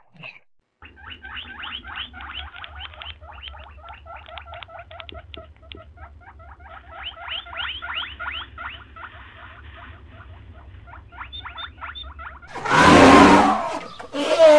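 A small animal's rapid, high-pitched squeaky chirps, many each second, with a low hum underneath. Near the end a much louder, harsh call breaks in.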